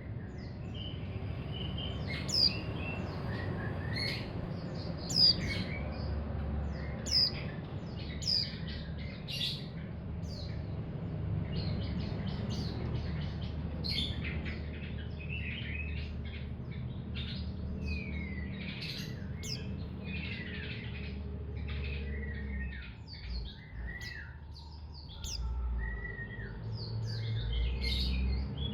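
Young, untrained mountain white-eye calling: sharp, high chirps falling in pitch, about one every second or two, then from about eleven seconds in a fast, continuous twittering song.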